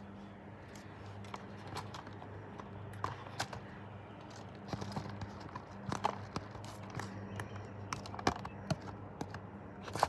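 Close-miked eating sounds: irregular wet clicks, smacks and crunches of chewing, busiest in the second half, over a steady low hum.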